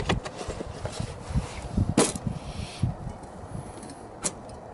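Scattered light knocks and clicks of things being handled, with a sharper click about two seconds in and another near the end.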